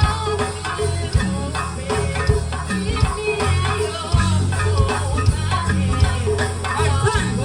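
Live gospel band playing: drum hits and deep bass notes that step in pitch every second or so keep a steady beat under higher wavering melodic lines.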